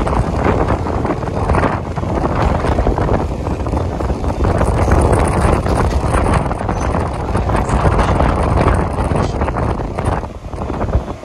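A Mumbai suburban local train running at speed, heard from its open doorway: wind buffeting the microphone over the rumble and clatter of the wheels on the track. The noise eases slightly near the end.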